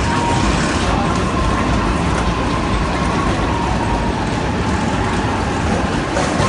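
Steady mechanical noise of a stationary Shinkansen bullet train at the platform, its onboard equipment running, with a faint steady whine.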